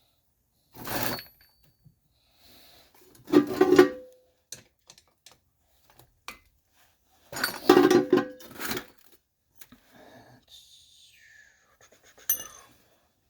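Metal small-engine parts clattering as they are handled and set down: a few loud knocks, some with a brief metallic ring, and lighter taps between them.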